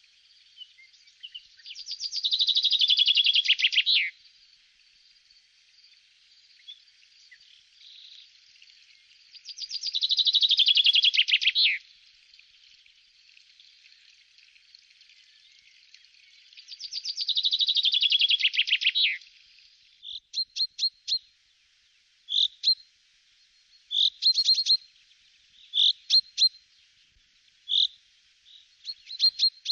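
A songbird singing three times, several seconds apart, each song a fast run of notes falling in pitch and lasting about two seconds. Through the last third come short, high chirps, repeated at irregular intervals.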